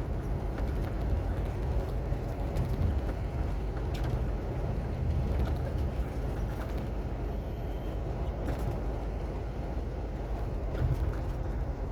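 Heavy truck running: a steady low engine and road rumble with a few light clicks and rattles scattered through it.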